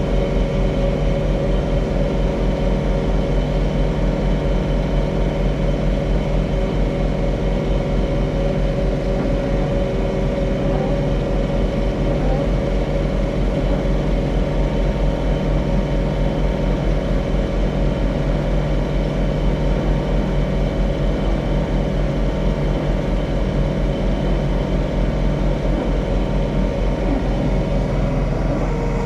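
John Deere 3046R compact tractor's three-cylinder diesel engine running steadily under load, driving a mid-mount PTO snowblower.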